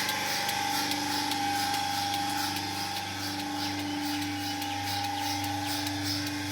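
A machine running steadily with a constant hum, with faint repeated ticking over it.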